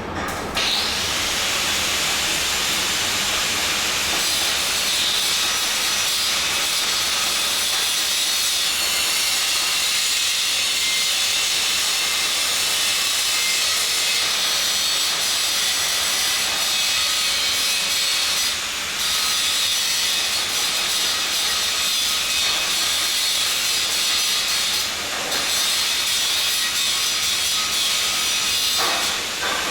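Welding equipment running with a loud, steady hiss that starts about half a second in and breaks off briefly three times, near the 19th, 25th and 29th seconds.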